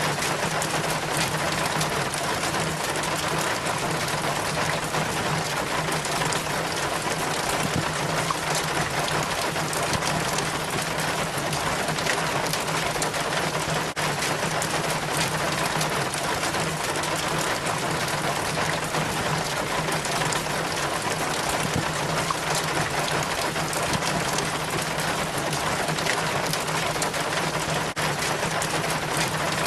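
Rainwater trickling and splashing steadily down a rain chain from the gutter, with a steady low hum underneath.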